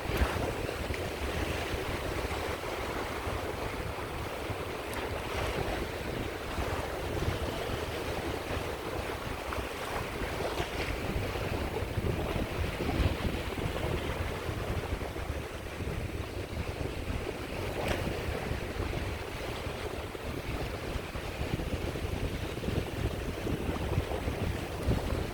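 Small sea waves washing onto the shore with gentle surges, and wind buffeting the microphone with a low rumble.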